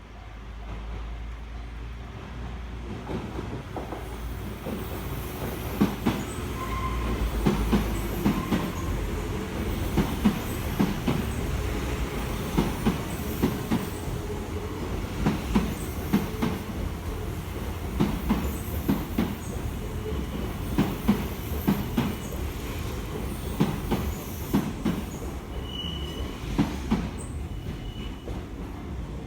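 Kintetsu Minami-Osaka Line train passing over a level crossing: a steady rumble with sharp wheel clacks over the rail joints, coming in clusters every couple of seconds as each car goes by. There are a few short wheel squeals.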